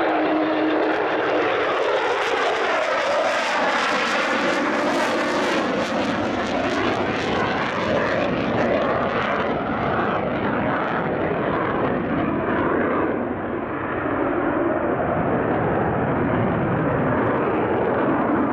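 Military fighter jet flying past, a loud, steady jet engine noise whose tone sweeps slowly up and down as the aircraft goes by.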